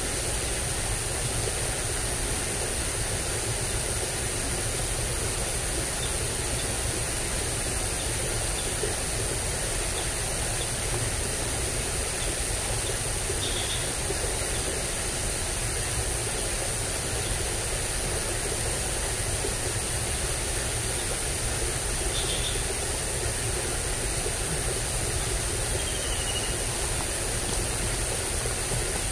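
Steady rushing noise of flowing ditch water, with a constant high thin whine over it and a few faint short chirps.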